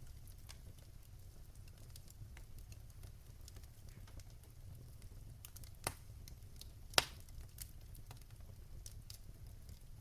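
Fire crackling in a fireplace: scattered small ticks over a low steady rumble, with two sharper pops a little after halfway, about a second apart, the second the loudest.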